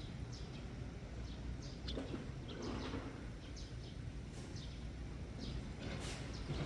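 Eurasian tree sparrows chirping, short high chirps repeating about once a second, over a steady low rumble that swells briefly about two seconds in.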